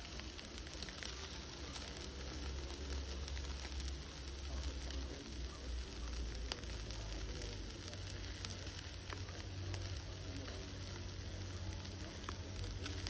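Food sizzling as it cooks over an open fire, a steady hiss broken by scattered pops and crackles.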